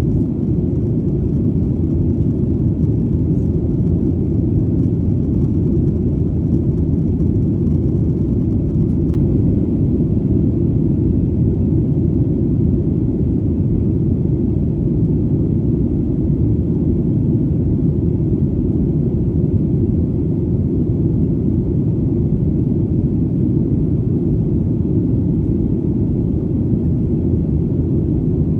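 Airplane engine drone heard as a steady, deep noise with its weight in the low bass and little above it, unchanging throughout.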